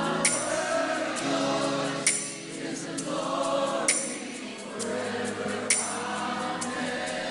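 Worship music: voices singing held notes over sustained chords, with a light high percussion hit about every two seconds.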